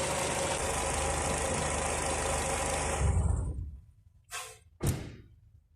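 Mercedes-Benz M111 four-cylinder petrol engine idling steadily, with the power steering pump audibly noisy, then falling away about three seconds in. Two short knocks follow near the end.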